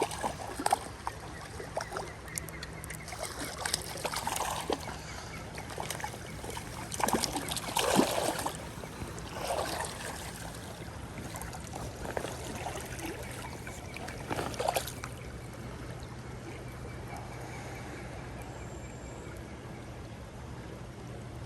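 Water splashing and sloshing in uneven bursts over the steady rush of a creek, loudest about halfway through, then only the creek's steady flow for the last several seconds.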